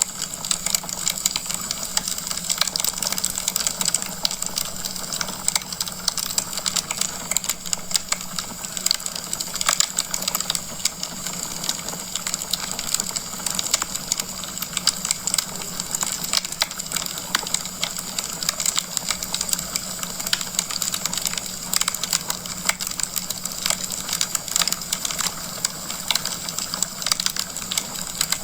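Wood fire burning in a fireplace, crackling with dense, irregular pops and snaps over a steady hiss.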